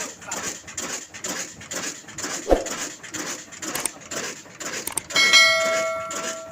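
Lahore-made Ruston-type diesel engine running with a steady, even beat. A sharp metallic clang about two and a half seconds in, then a struck piece of metal rings like a bell from about five seconds in and fades away.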